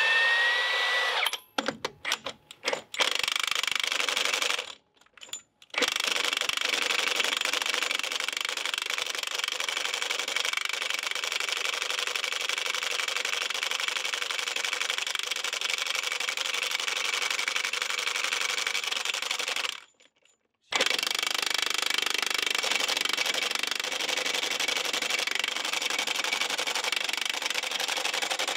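Cordless 1-inch D-handle impact wrench (Milwaukee M18 FUEL, extended anvil) hammering on a 33 mm hub-piloted Budd nut of a semi-truck wheel. It starts with a few short trigger pulls, then hammers continuously for long stretches.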